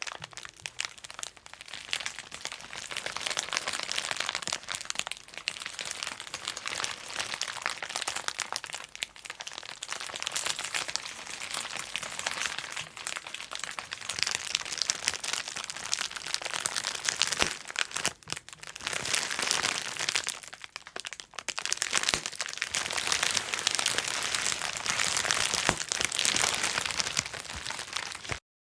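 Bubble wrap being crinkled and popped continuously: dense crackling with many small sharp pops, easing briefly a few times before stopping abruptly just before the end.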